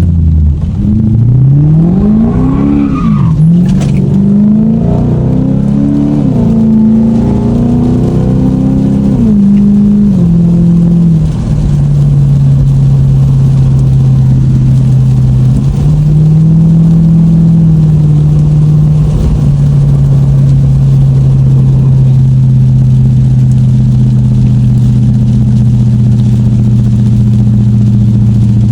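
Lexus car engine under way: its pitch climbs and drops several times, as through gear changes, then settles after about ten seconds into a steady drone at constant speed.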